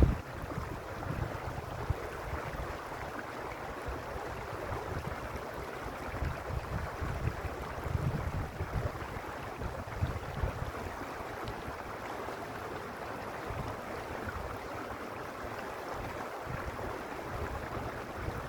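Mountain stream rushing steadily over rocks, with a low wind rumble on the microphone now and then.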